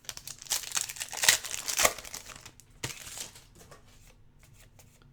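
A foil trading-card pack wrapper crinkling and tearing open for about two seconds, followed by a few sharp ticks and fainter rustles of card handling.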